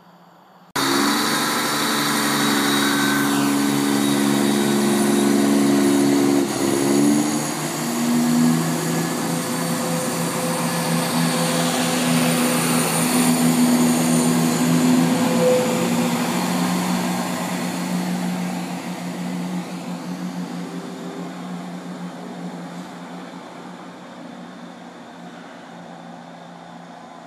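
A train running through the station, its engine or traction note steady and loud at first, changing pitch about seven seconds in, then fading away as it moves off.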